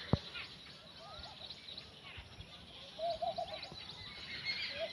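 Birds chirping and twittering, with a lower short warbling call heard faintly about a second in, then more strongly around three seconds in and again near the end. A single sharp click right at the start.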